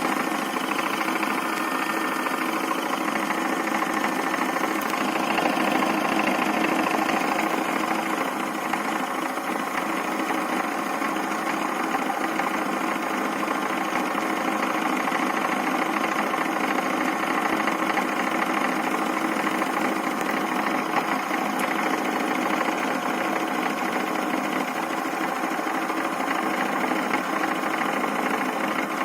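Toy Miele washing machine's small electric motor running steadily, turning the drum.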